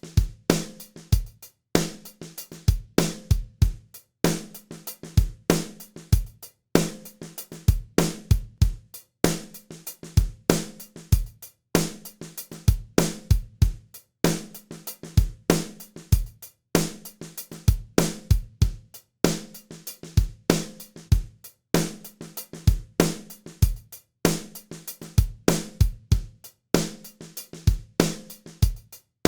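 Drum beat playing a steady loop of kick, snare and hi-hat that repeats about every two and a half seconds.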